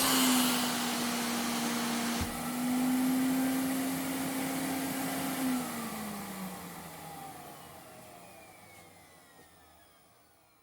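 Vacuum cleaner running steadily, with a brief click about two seconds in; about halfway through the motor winds down, its whine falling in pitch and fading away as it spins down.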